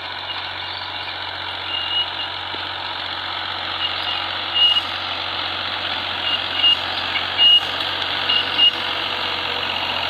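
John Deere tractor's diesel engine running steadily, with short high-pitched beeps at uneven intervals over it.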